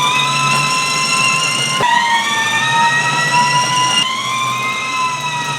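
Fire alarm siren sounding: a wailing tone that winds up in pitch and levels off, starting over twice, with a steady high tone held underneath.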